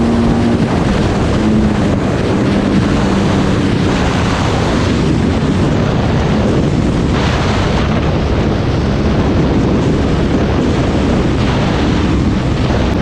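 Dirt bike engine running under way, largely drowned by heavy wind rushing over the microphone.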